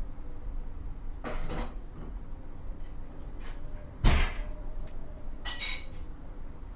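Kitchen cooking sounds: a brief rustle, then a dull knock about four seconds in, the loudest sound, followed by a short ringing clink of cookware, over a steady low rumble.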